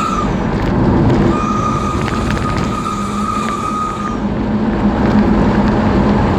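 Engine running through a newly fitted aftermarket exhaust, a loud rough rumble with a high steady whistle that comes in about a second in and drops out after about four seconds.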